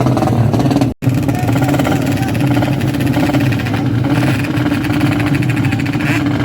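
Honda Karisma motorcycle's single-cylinder four-stroke engine running at a steady pitch. The sound cuts out for an instant about a second in.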